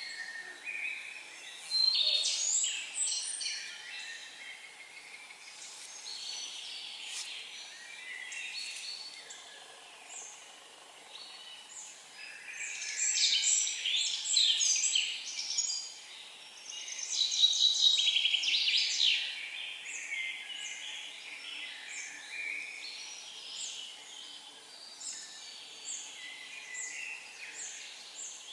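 Forest songbirds singing: several birds' chirping and trilling phrases, the loudest bursts about two seconds in, around the middle, and a little after, with a run of short repeated notes toward the end.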